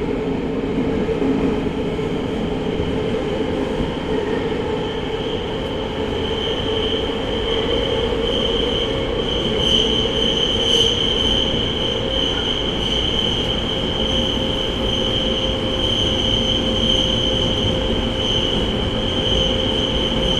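Tokyo Metro 05 series subway car running between stations, heard from inside the car: steady rumble of wheels on rail, with a steady high-pitched squeal that comes in about six seconds in and holds.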